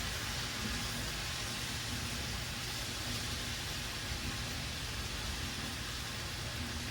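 Sausage and cabbage with a splash of red wine sizzling and simmering in a skillet: a steady, even hiss.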